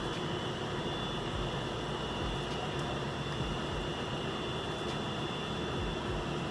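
Steady drone of a cruise ship's machinery: an even rushing noise with a low hum under it and a faint high whine held throughout.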